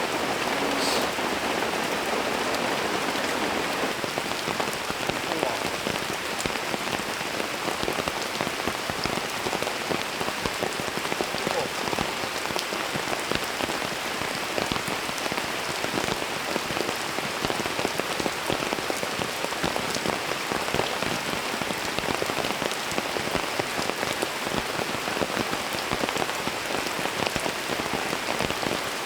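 Steady rain, with many individual drops landing close by as a dense run of small ticks.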